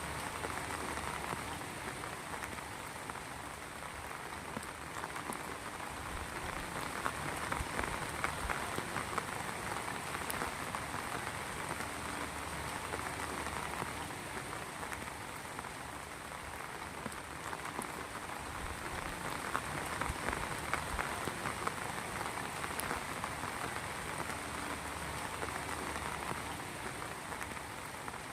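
Heavy rain falling steadily, a dense patter of drops, swelling a little in strength twice.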